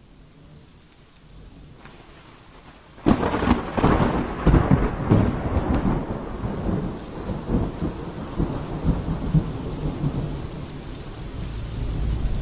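Storm sounds: faint hiss for about three seconds, then a sudden loud burst of crackling and deep rumbling, settling into a heavy, steady rush of rain and rumble.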